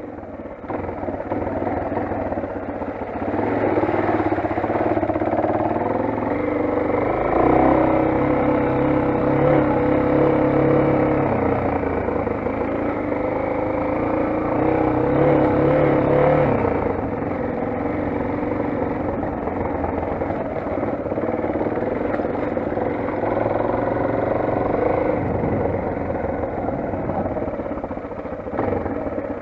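Motoland XR 250 motorcycle's single-cylinder engine running steadily, its pitch rising and falling with the throttle, with the engine note rising at about three seconds and again at about seven seconds.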